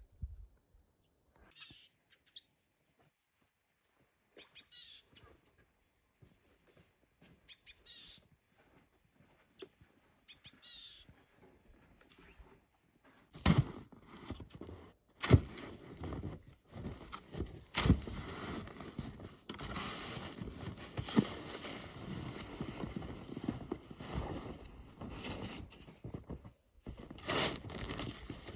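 A few short bird chirps in a quiet first half. From about halfway there is a long stretch of dense scraping noise broken by several sharp knocks.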